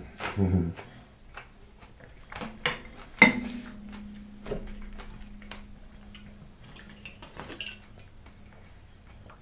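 A spoon clinking and scraping against a bowl of fruit in coconut water. One sharp clink about three seconds in leaves a ringing tone that fades over a few seconds.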